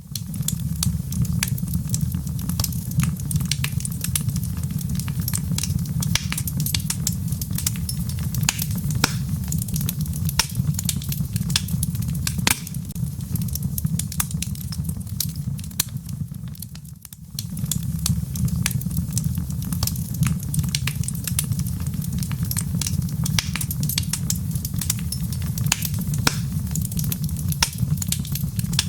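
Crackling wood fire in a fireplace: a dense run of sharp pops and snaps over a steady low rumble, which dips briefly a little past halfway and then resumes.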